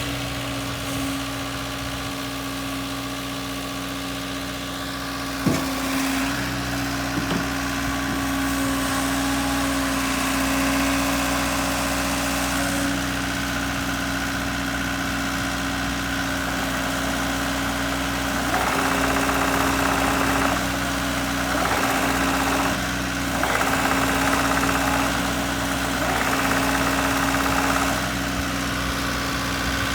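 JCB 85Z-1 midi excavator's diesel engine running steadily, with a single sharp knock about five seconds in. In the last third come several stretches of louder rushing noise over the engine, each lasting a second or two.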